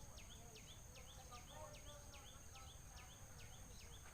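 Faint insect chorus: a steady high-pitched drone with a short falling call repeated about two and a half times a second.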